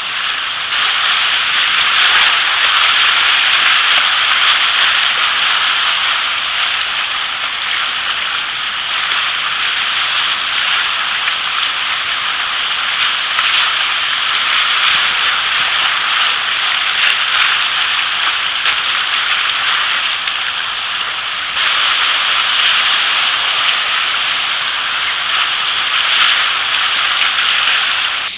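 Rushing whitewater of river rapids, a loud steady hiss of water.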